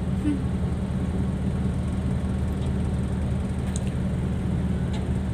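Dump truck's diesel engine running steadily with an even low hum.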